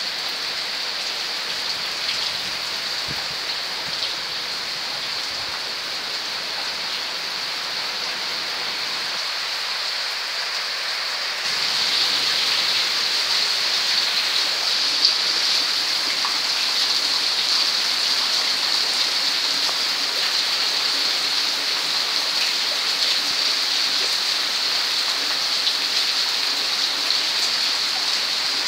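Heavy rain falling steadily on paving and a roof, with water streaming off the roof edge; it grows louder about twelve seconds in.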